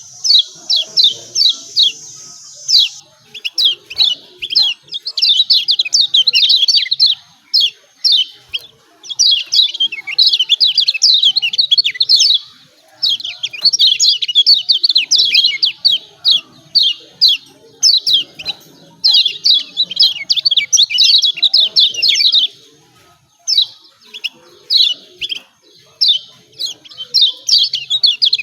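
Kecial kuning, a Lombok white-eye, giving rapid 'ciak ciak' chirp calls: fast runs of short, high, downward-sweeping notes lasting a few seconds each, with brief pauses between runs.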